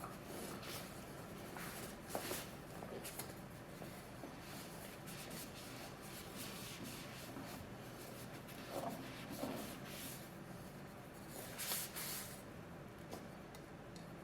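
Faint scratching and rubbing from hands working on an oil filter cartridge and its housing while the filter and gasket are swapped, with a few light knocks about two, nine and twelve seconds in.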